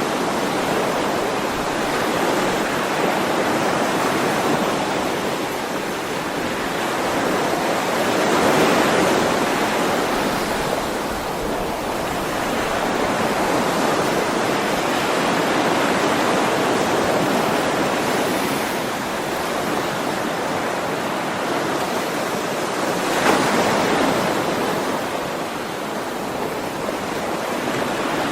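Sea waves washing ashore: a continuous rush of surf that slowly swells and falls back, with stronger surges about a third of the way in and again, briefly, past the three-quarter mark.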